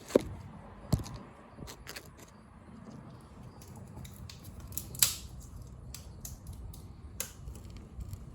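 Scattered sharp clicks and knocks of handling, the first as the recording phone is set down. The loudest come just after the start and about five seconds in.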